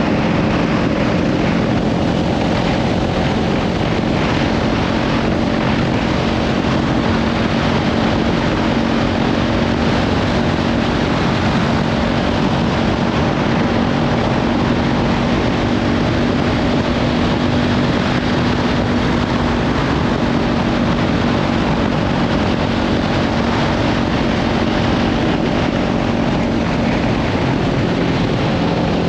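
Kawasaki Ninja 500's parallel-twin engine, fitted with a Leovince slip-on exhaust, running at a steady cruising speed under heavy wind noise on the microphone. Its pitch dips slightly near the end.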